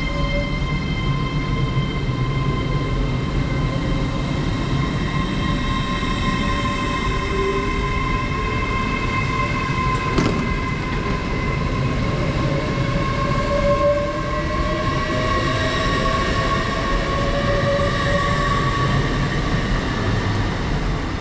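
LNER Azuma (Hitachi Class 800/801) train pulling out, its traction drive giving a steady multi-tone whine with lower tones slowly rising as it gathers speed, over low running rumble. A single sharp click about halfway through.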